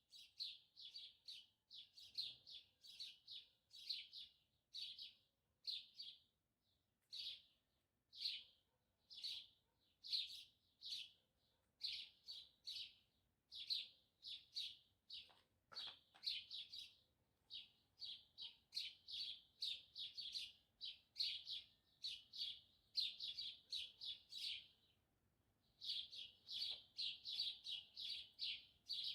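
A small bird chirping over and over: short, high chirps coming several a second in quick runs, with a pause of about a second near the end.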